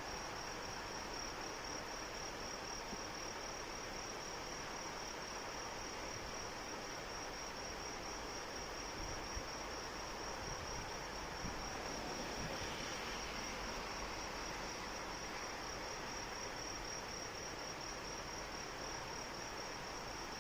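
Steady rain hiss with insects trilling, one continuous, finely pulsed high-pitched trill held unbroken over the rain.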